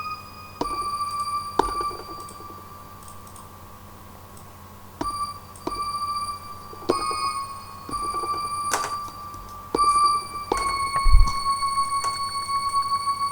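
Roland M-DC1 sound module playing single bell-like synth notes triggered from drum pads, each note starting with the tap of a pad; about ten notes with a pause in the middle, the last one held and ringing on near the end.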